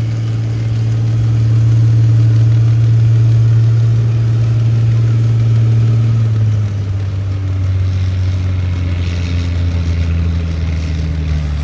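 Farm tractor engine running hard under load during a tractor pull, a loud steady low drone. Its pitch drops a step a little past halfway through.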